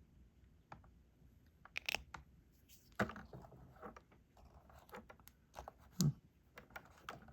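Small, irregular plastic clicks and taps of a diamond-painting pen picking up resin drills and pressing them onto the adhesive canvas, with a few sharper taps about two, three and six seconds in.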